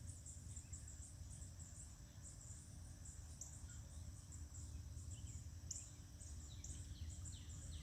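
Faint outdoor ambience: a steady high insect drone with short high chirps repeating through it, over a low rumble.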